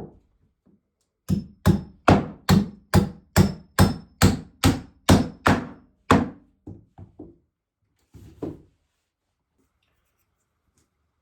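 Hammer striking wood: about a dozen hard, evenly spaced blows, two to three a second, then a few lighter taps and one more knock a second later.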